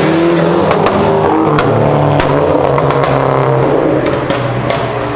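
A car engine accelerating hard past the listener, its note climbing near the start and then holding, with several sharp cracks over the engine.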